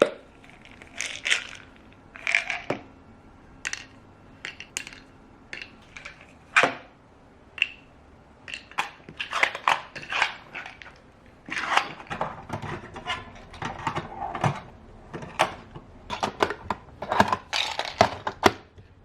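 Irregular clicks and clatter of small hard objects being handled, in short separate strikes with uneven gaps.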